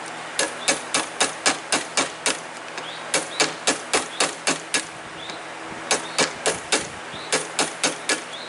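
A hammer striking a chisel to chop a groove in oak, in quick runs of about three or four blows a second with short pauses between runs.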